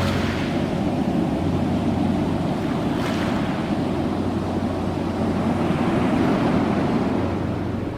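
Ocean surf: waves breaking and washing on a shore in a continuous rush, with a fresh wave surging at the start and another about three seconds in.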